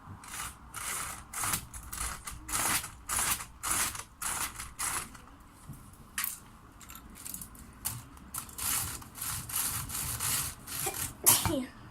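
A run of short, irregular rustling and scraping noises close to the microphone, about fifteen in all, with no musical note: an object is being handled.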